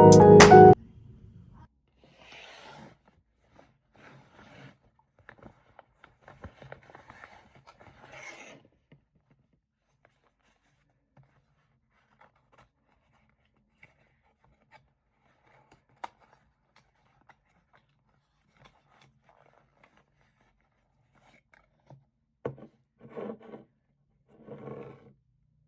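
Faint rustling, scraping and light clicks of objects being handled, with long quiet gaps. There is a single sharp click about two-thirds of the way through and a few louder short scrapes near the end. Background music cuts off just at the start.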